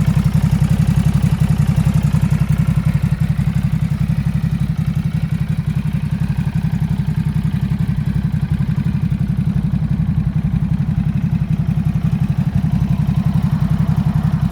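Ducati Supersport 950 S's 937 cc L-twin engine idling steadily, with a rapid, even exhaust pulse.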